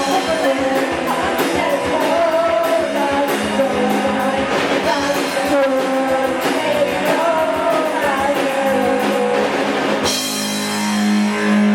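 Live rock band playing: sung vocals over electric guitar and a steady drum-kit beat. About ten seconds in the beat stops, and a cymbal crash and a held chord ring on.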